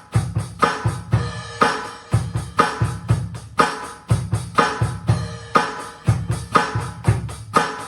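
Drum kit playing a steady rock beat, with bass drum and snare hits at an even pulse, along with pitched music.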